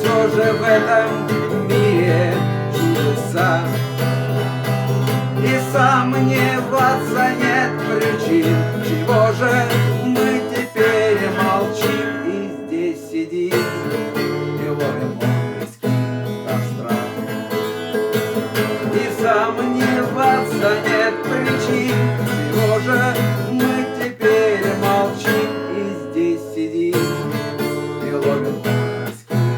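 Acoustic guitar music, an instrumental passage with no singing, continuing steadily apart from brief dips about halfway and near the end.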